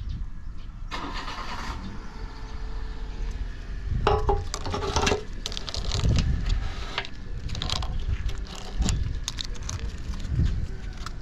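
Yamaha TW200's single-cylinder engine running through a SuperTrap down-muffler. The level rises and falls, with clicks and rattles over it.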